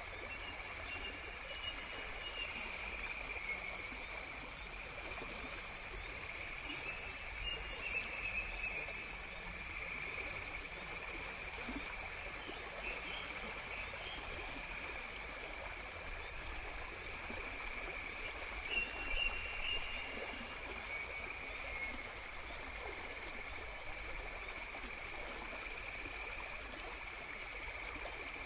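Natural outdoor soundscape: a steady rush of flowing stream water with insects chirping and trilling over it. A fast high trill runs from about five to eight seconds in, and a short louder burst of chirps comes about two-thirds of the way through.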